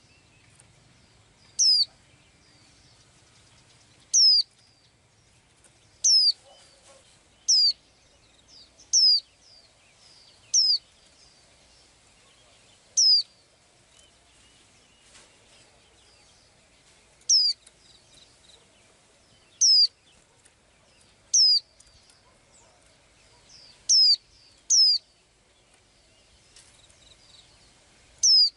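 Small bird calling: about a dozen short, high chirps, each sweeping downward in pitch, repeated at irregular intervals of one to four seconds.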